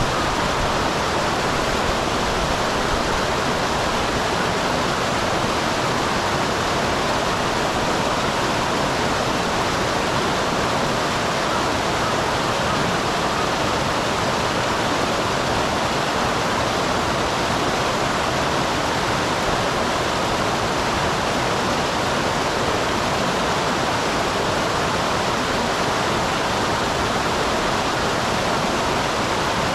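Small waterfall on a mountain stream: water falling and rushing in an even, unbroken noise that is strongest in the middle range.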